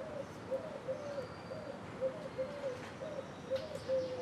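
A bird calling, a quick, even run of short low notes repeated several times a second, with faint higher chirps now and then.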